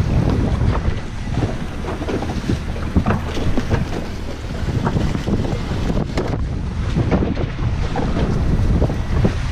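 Wind buffeting the microphone over the wash of waves against a small boat's hull, with scattered short knocks and taps throughout.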